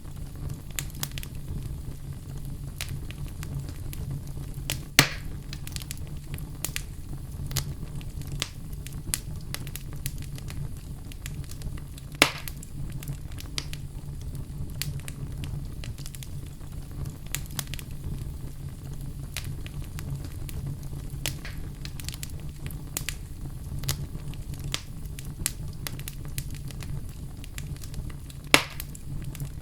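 Wood fire crackling in a fireplace: a steady low rumble of flames with frequent small crackles. Three louder pops stand out, about five seconds in, about twelve seconds in, and near the end.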